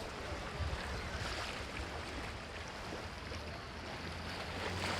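Sea waves washing on a sandy beach as a steady, even hiss, over a low rumble of wind.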